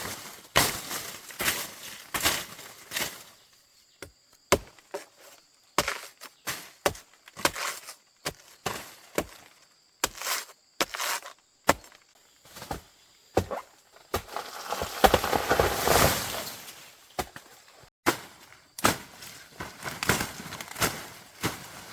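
Irregular chopping strokes, one sharp knock after another at uneven intervals, with a rougher stretch of scraping and rustling about two-thirds of the way through.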